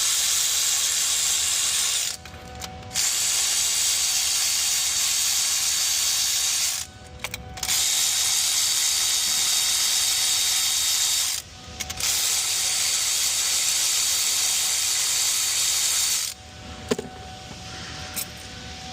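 Power tool spinning fasteners out in four long spells of several seconds each, with short pauses between, while removing the EGR valve. It stops about three quarters of the way through, leaving a couple of light clicks.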